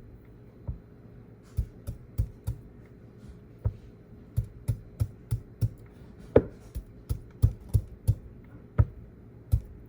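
A run of sharp, irregular taps or knocks, about two to three a second, the loudest about six seconds in, over a steady faint hum.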